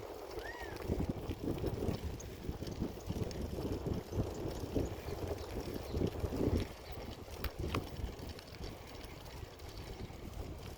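Wind buffeting the microphone over an uneven rumble of irregular bumps and rattles, the noise of a bicycle being ridden over rough ground. One short chirp sounds about half a second in.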